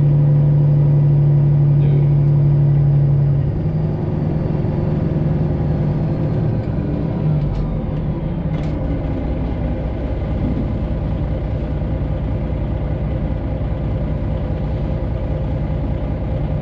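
Semi-truck's Detroit Diesel 12.7 engine running, heard from inside the cab. A steady low hum gives way about three and a half seconds in to a rougher, slightly quieter running note as the truck is moved.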